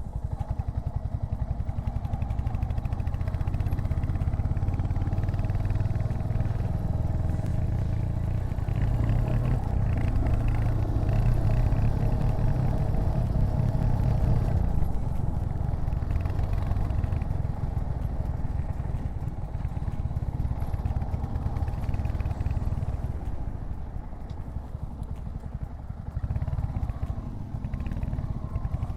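Royal Enfield Hunter 350's single-cylinder 349 cc engine running under way as the motorcycle climbs hairpin bends, a steady fast pulsing exhaust note. It dips briefly about three-quarters of the way through, then picks up again.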